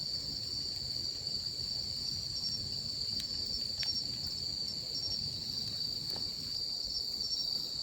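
Insects chirring in a steady high-pitched drone, with a few faint clicks.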